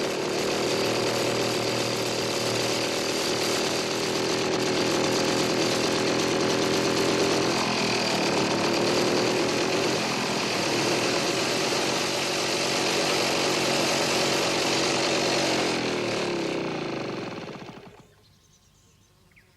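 Engine of a ramshackle old car running steadily as it is driven, then fading away near the end.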